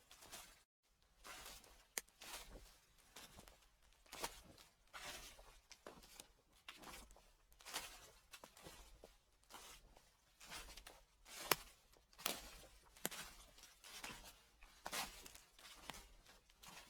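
Footsteps crunching through dry fallen leaves at a slow, even walking pace, about one step every second, with a couple of sharper crackles among them.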